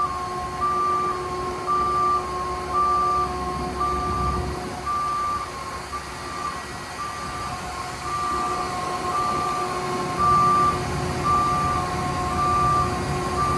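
Backup alarm on a Freightliner M2 106 rear-loader garbage truck beeping about once a second, over the truck's diesel engine running.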